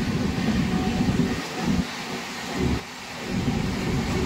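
Passenger train running on the rails, heard from inside a coach: a steady low rumble of wheels and track, dipping briefly a couple of times near the middle.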